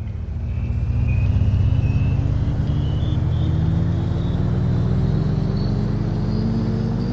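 A vehicle engine running and slowly gaining speed, its drone and a higher whine both rising steadily in pitch.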